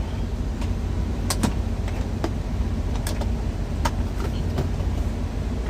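Steady low rumble of an idling truck, with scattered sharp clicks and pops from food frying in the pans.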